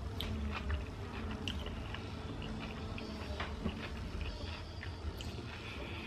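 A person chewing a mouthful of chili dog with the mouth closed, making small scattered wet clicks over a low steady hum.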